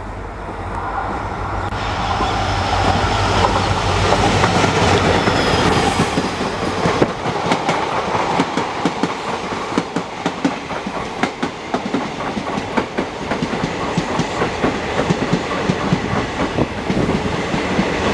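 An EMD WDP-4 diesel-electric locomotive running past at speed: its two-stroke engine drone builds for the first few seconds. After a sharp knock about seven seconds in, it gives way to a fast, steady clickety-clack of passenger-coach wheels over the rail joints.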